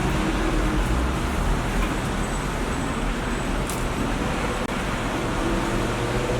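Steady rumbling background noise with a faint hum.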